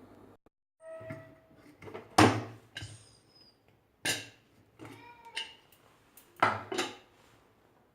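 Metal cookware clanking: a few sharp metallic knocks with short ringing, three of them loud, about two, four and six and a half seconds in.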